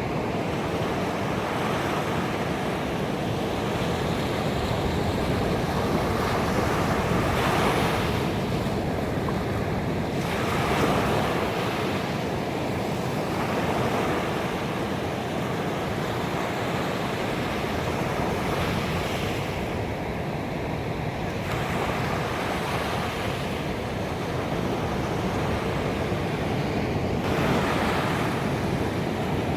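Ocean waves breaking on a beach: a continuous wash of surf that swells every few seconds as each wave crashes and draws back.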